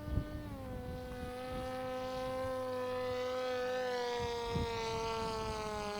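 Electric motor and propeller of a TBS Caipirinha FPV flying wing buzzing in flight, a steady pitched drone that drops a step about half a second in as the throttle eases, then sinks slowly lower. Wind buffets the microphone underneath.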